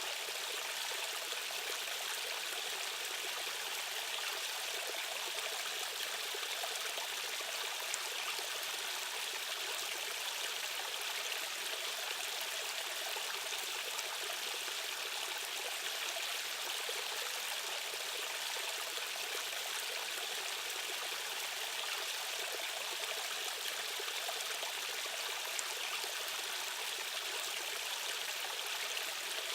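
Stream water rushing and trickling over rocks, a steady, even splashing.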